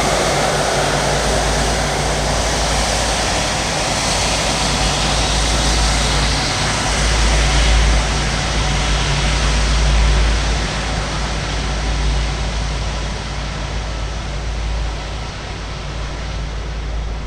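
Jet airliner engine roar that swells slightly near the middle and then fades as the aircraft moves away, the high hiss thinning out toward the end. Wind rumbles on the microphone underneath.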